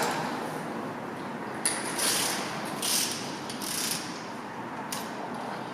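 Socket ratchet clicking in about five short bursts as bolts are worked on a motorcycle engine during an oil change.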